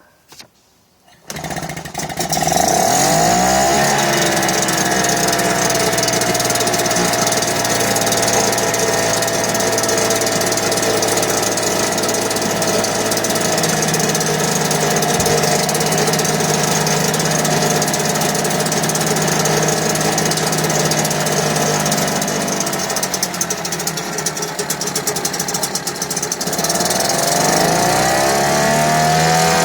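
1971 British Seagull Silver Century 5 hp two-stroke outboard engine starting and running, freshly serviced with a cleaned carburettor and a new spark plug. It catches about a second in and revs up quickly, then settles to a steady run that slows gradually. The revs dip briefly and rise again near the end.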